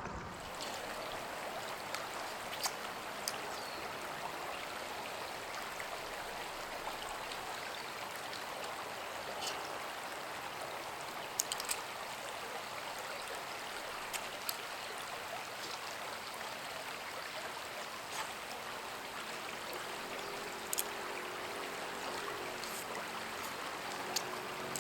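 Steady rushing of running water, with a few sharp crackles scattered through it.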